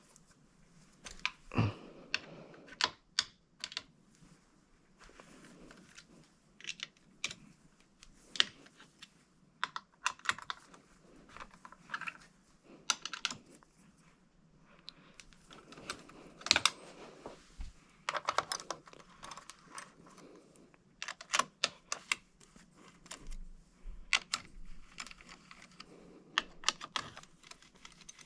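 Irregular sharp clicks and clinks of hand tools and metal parts being handled while working on a motorcycle engine, with a few louder clacks among many small ones.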